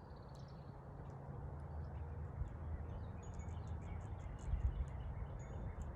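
Scattered short, high bird chirps and calls, growing busier about halfway through, over a steady low rumble.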